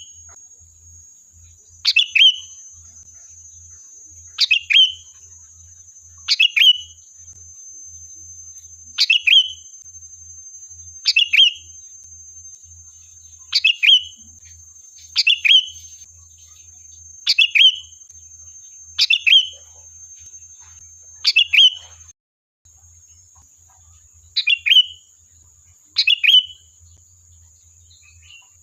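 Sooty-headed bulbul calling: short, sharp calls repeated about every two seconds, each a quick downward flick of notes.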